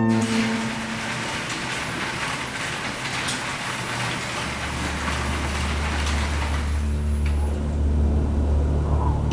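A vehicle on the move in deep snow: a rushing hiss for the first six seconds or so, joined about halfway by a steady low engine drone that carries on to the end.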